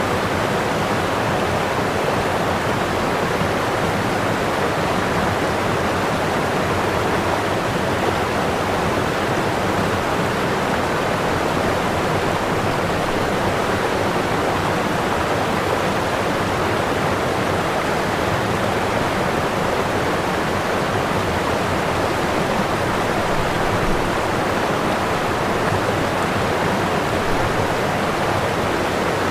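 Waterfall: whitewater pouring over the falls in a steady, unbroken rush.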